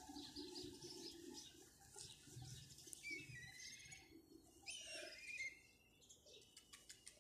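Near silence with faint bird chirps and twitters: short runs of gliding notes about three seconds in and again near five seconds. A few faint ticks come near the end.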